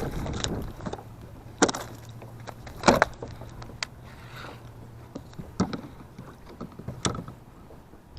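A few sharp knocks and clunks, the loudest about three seconds in, over a low steady hum that fades out about five seconds in.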